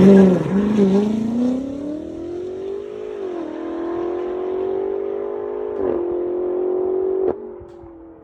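Supercar engine accelerating hard from a launch, its pitch climbing and dipping briefly twice at gear changes. The sound drops off sharply about seven seconds in.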